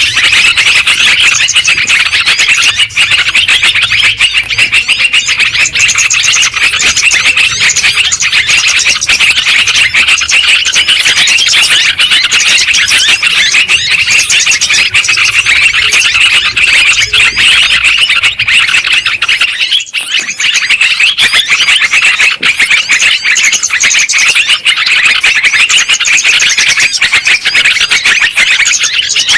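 A flock of yellow-vented bulbuls (trucukan) calling noisily, with many chirps and chattering calls overlapping without pause. There is a brief break about twenty seconds in.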